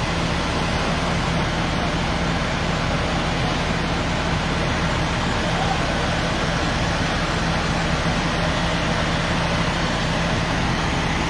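Steady engine noise of an idling vehicle: an unchanging low hum under a broad hiss.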